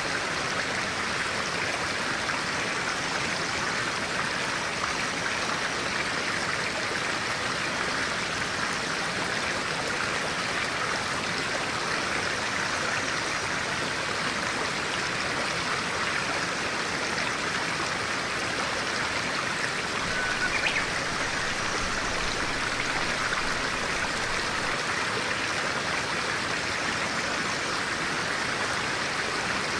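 A clear-water stream running steadily over stones, a constant even rush with most of its sound in the upper-middle range. About two-thirds of the way in, a single brief bird chirp.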